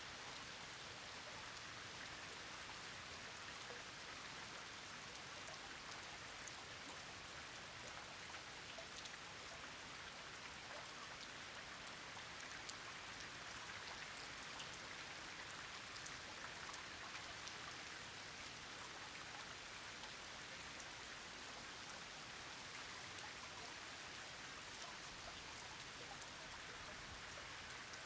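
Steady rain falling: an even hiss with many fine ticks of individual drops.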